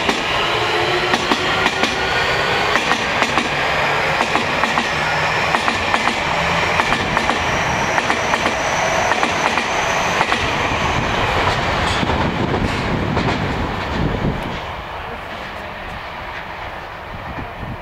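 Electric train accelerating away from the platform: a motor whine that climbs in pitch over the clatter of wheels on rail joints. The sound fades away about 14 seconds in.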